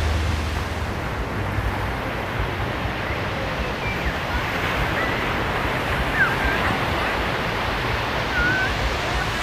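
Sea surf washing steadily, with a few faint short high calls above it.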